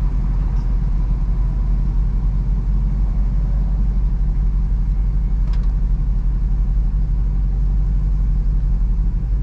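SRT SUV's V8 engine idling, a steady low rumble heard from inside the cabin, with one light click about five and a half seconds in.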